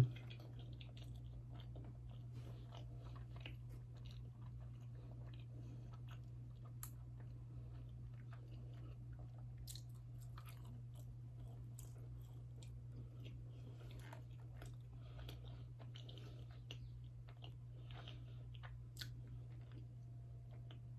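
Close-miked chewing of a chocolate orange dessert, with many small, soft mouth clicks and bites scattered throughout, over a steady low electrical hum.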